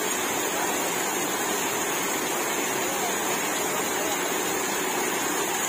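Rain-swollen small river rushing steadily, its black floodwater running high after a heavy downpour and carrying rubbish along.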